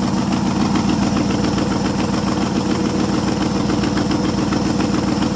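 International Harvester 345 V8 in a 1973 International 1210 pickup idling steadily, with an even, regular exhaust pulse. It runs smoothly on its original, untouched two-barrel carburetor.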